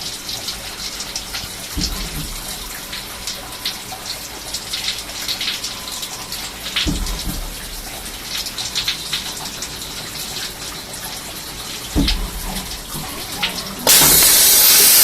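Swiss-type CNC lathe running, cutting oil splashing steadily over the work, with a low thump about every five seconds. A loud, even hiss starts a second before the end.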